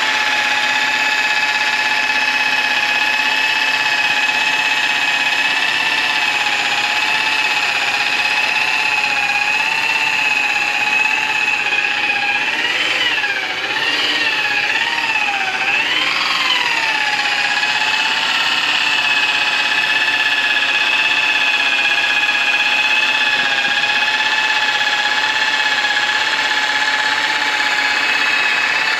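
Electric rotary polisher's motor running with a steady high whine on aluminum brightwork, its pitch wavering up and down for a few seconds about halfway through as the load on the pad changes.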